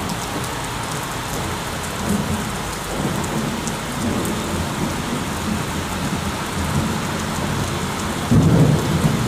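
Heavy rain pouring steadily during a thunderstorm, with thunder rumbling low from about two seconds in. The thunder grows suddenly louder near the end.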